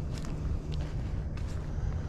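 Footsteps on a muddy trail, a few soft steps heard over a steady low rumble.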